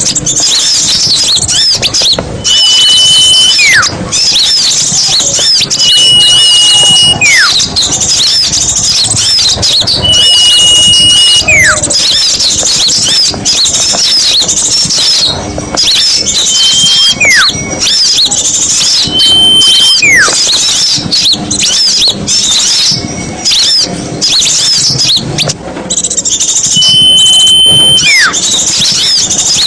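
A noisy chorus of many small songbirds chirping and twittering without a break, as on a bird-lure track for catching small birds. Every few seconds a clear whistle holds one note and then drops sharply in pitch.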